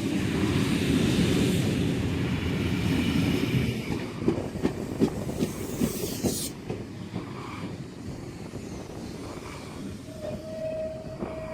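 Sydney Trains S-set double-deck electric train pulling into the platform: a loud rumble for the first few seconds, then a run of sharp wheel clicks over the rail joints and a high hiss that cuts off suddenly as it slows to a stop. A steady tone starts near the end.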